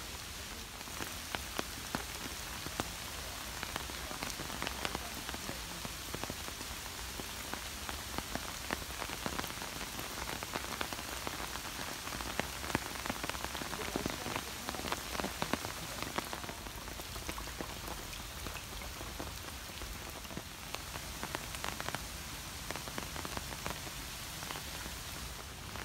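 Steady rain falling on surfaces, with many individual raindrops pattering close by.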